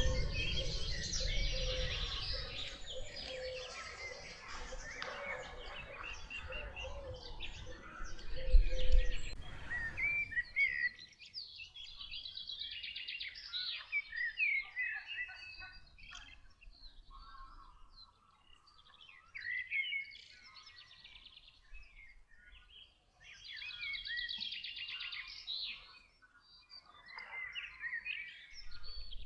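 Several songbirds singing and chirping, a mixed chorus of short warbling phrases and calls. During the first third a low rumble sits under the song, and a loud low thump comes about a third of the way in.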